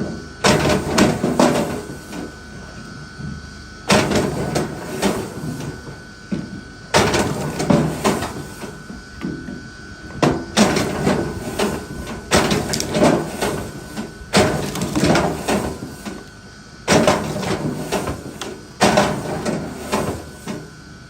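Hand work on wood: bursts of knocking and scraping, each lasting one to a few seconds, with short pauses between them. A faint steady whine runs underneath.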